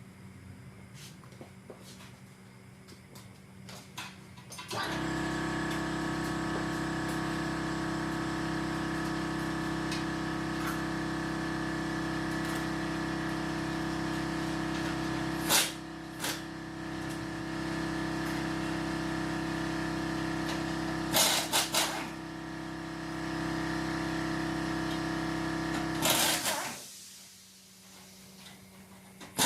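A motor-driven machine starts about five seconds in, runs with a steady, even hum for about twenty seconds while a few sharp knocks sound over it, then stops.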